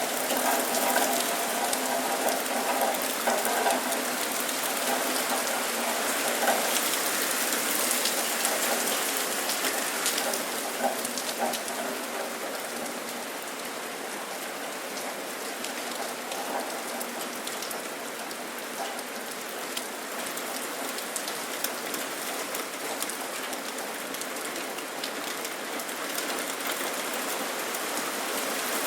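Steady rain falling, an even hiss dotted with many small drop taps. It eases slightly after about ten seconds.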